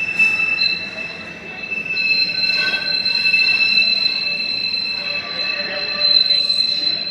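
Train wheels squealing against the rails: a steady high-pitched squeal in two tones over the rumble of the moving train, easing briefly about a second in.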